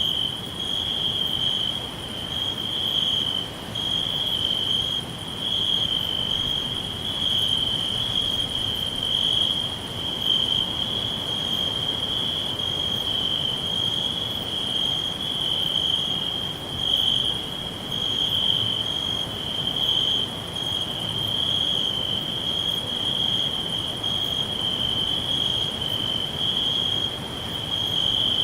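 Crickets chirping in a continuous high trill, with a fainter, higher chirp repeating about twice a second over it.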